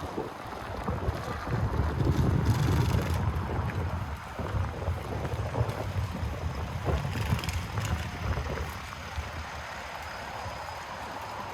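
City street ambience: a low rumble that swells about a second or two in and dies down by about four seconds, then a steadier background hum with a few faint clicks.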